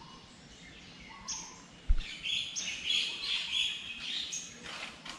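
Birds chirping in the trees: a run of short, high chirps and calls, busiest in the middle. A single dull thump about two seconds in.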